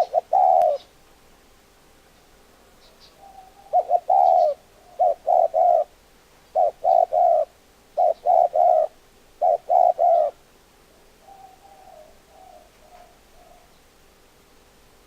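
Spotted dove cooing: short phrases of two or three low coos, repeated about every one and a half seconds, then a few fainter coos near the end.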